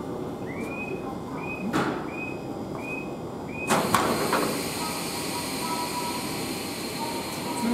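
Sounds from coupled E721-series trains standing at the platform: five short repeated chirps, then a sharp burst about four seconds in followed by a steady hiss.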